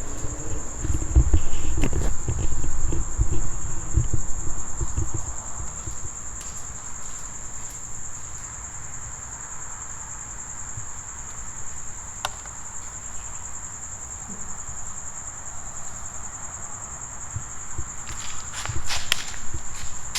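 Crickets trilling steadily at one high pitch, with low thumps over the first five seconds and a few sharp clicks near the end.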